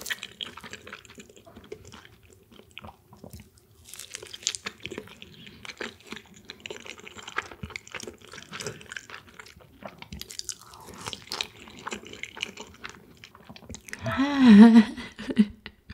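Close-miked chewing and wet mouth clicks of a person eating a piece of sweet egg castella (kasutera-style tamago). Near the end a short singsong voice phrase.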